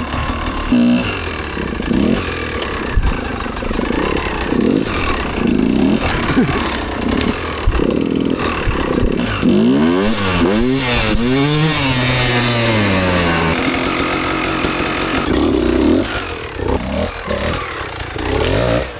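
Enduro motorcycle engine revving hard and unevenly, its pitch repeatedly climbing and dropping, with several quick sweeps up and down about two-thirds of the way through.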